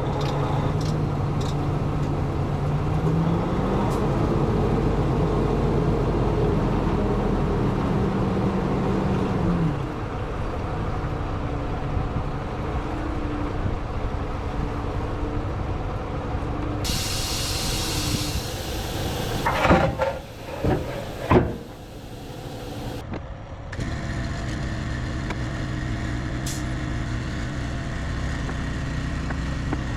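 Diesel semi truck engine idling, raised to a higher speed about three seconds in and dropping back to idle near ten seconds. Midway there is a hiss of released air with a few sharp knocks, then the engine idles steadily again.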